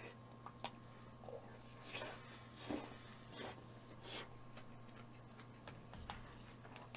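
Quiet eating sounds: several short scratchy bursts of chewing between about two and four seconds in, with a few small clicks, over a steady low hum.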